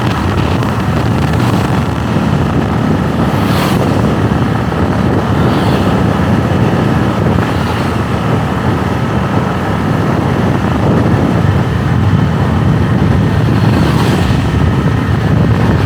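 Steady rumble of a moving motorbike, with wind buffeting the microphone.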